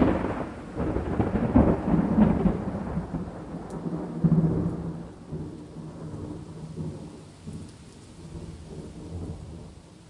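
A long roll of thunder over rain: a deep rumble with a few louder cracks in the first half, the last one about four seconds in, then fading away over the rest.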